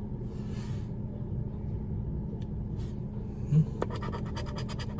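Scratch-off lottery ticket being scratched: a brief scrape near the start, then a short thump, then from about four seconds in a rapid run of short scratching strokes, over a steady low hum.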